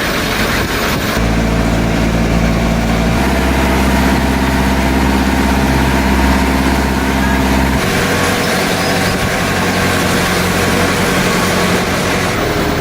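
An engine running steadily, a loud low hum of several tones that shifts abruptly to a new pitch about a second in, again around three seconds and again near eight seconds.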